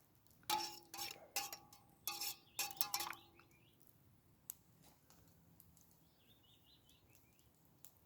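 Metal camp cookware clinking: several sharp metallic knocks in the first three seconds or so, each ringing briefly, as a utensil or mug knocks against metal. Faint bird chirps follow.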